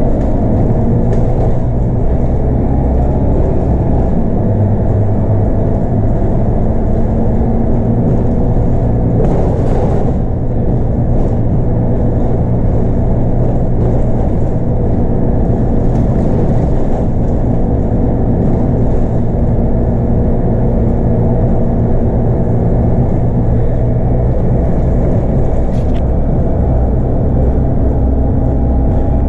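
Scania K230UB bus with an 8.9-litre five-cylinder diesel and a ZF Ecomat six-speed automatic, running steadily under way at near-constant engine speed, heard from inside the bus with a heavy low rumble. A brief rush of noise comes about ten seconds in.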